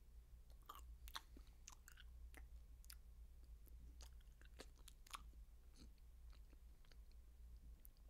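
Faint close-up eating sounds: chewing and soft, irregular mouth clicks and smacks, over a low steady hum.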